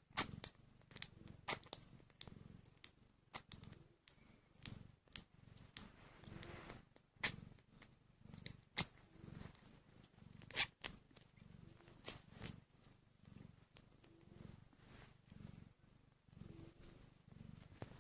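Sphynx cat purring in slow, even pulses, about three every two seconds, with frequent sharp little clicks over it.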